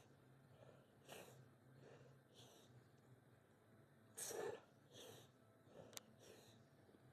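A man breathing hard in short, forceful puffs about once a second, the effort breaths of a lifter working through a set of reverse lateral raises; one short sharp click about six seconds in.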